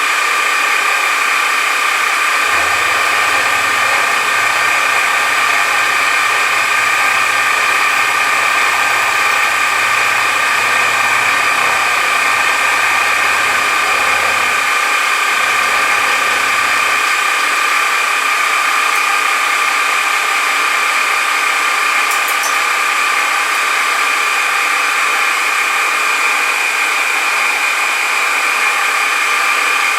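A metal-cutting machine tool running steadily through a cutting pass on a part, with a constant high whine. A deeper rumble joins it from about two seconds in until about seventeen seconds in.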